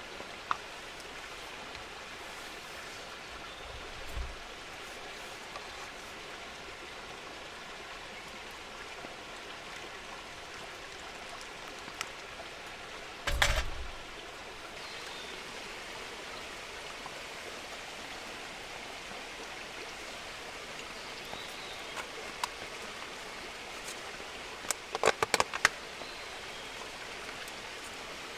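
Steady rain falling. A few sharp clicks and knocks cut through, one with a dull thump about halfway, and a quick run of clicks near the end.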